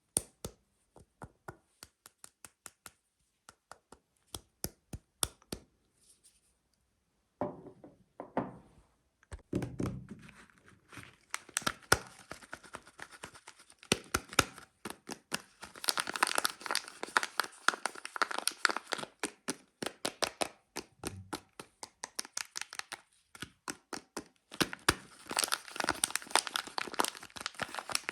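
Soap packaging being unwrapped by hand: the wrapper crinkling and tearing, with scattered taps and clicks. Sparse at first, then busier and louder through the second half.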